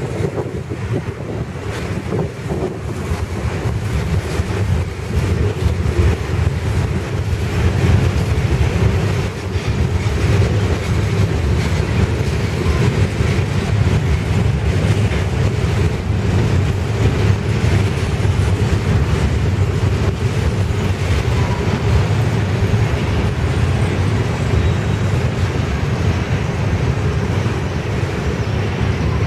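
Freight train tank cars and covered hopper cars rolling past close by: a steady rumble of steel wheels on the rails.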